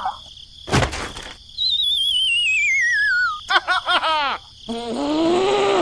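Comic sound effects: a thump, then a wavering whistle sliding steadily down in pitch for about two seconds, then quick squeaky chirps and a warbling squeal.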